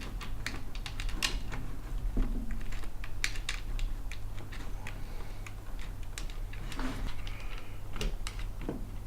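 Irregular light clicks and taps of acrylic and metal 3D printer kit parts being handled and fitted together by hand, over a steady low hum.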